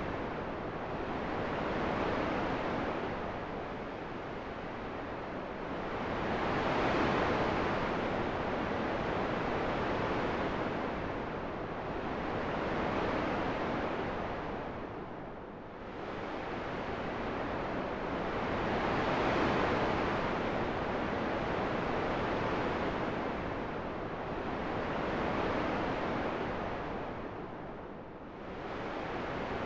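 Wind blowing as a steady rushing noise that swells and fades in slow gusts every several seconds.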